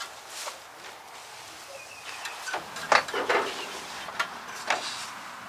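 A series of short clunks and knocks, loudest in a cluster about three seconds in.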